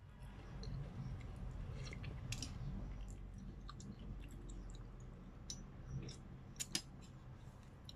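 Close-up chewing and mouth sounds of someone eating spicy chicken noodles in broth from a spoon, with scattered sharp clicks; the loudest pair of clicks comes about six and a half seconds in. A low steady hum runs underneath.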